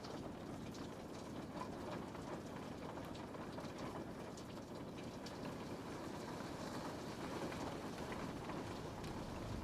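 Steady rain falling and pattering on a window pane, with scattered small drop ticks over a continuous low wash.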